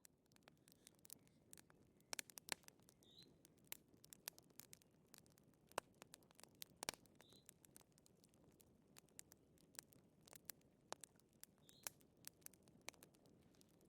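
Wood fire crackling faintly in a fireplace, with irregular sharp pops and snaps over a soft low hiss.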